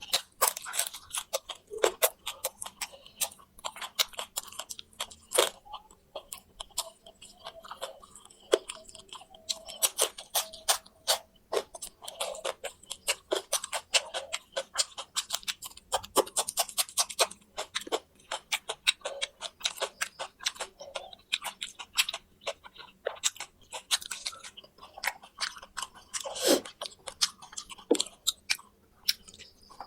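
Close-up, steady crunchy chewing of fried quail, small bones and all, with many irregular sharp crunches.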